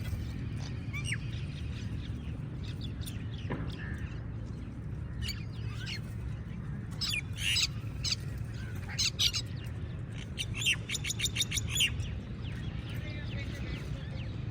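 A crowd of crows calling, with scattered harsh calls and a quick run of about ten calls near the end, over a steady low rumble.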